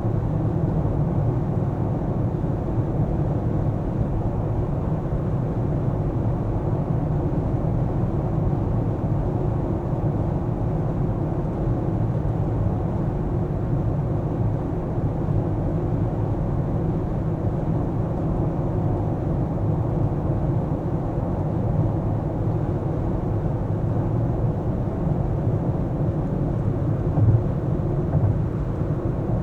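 Car driving in city traffic: a steady low rumble of road and engine noise, with two brief thumps near the end.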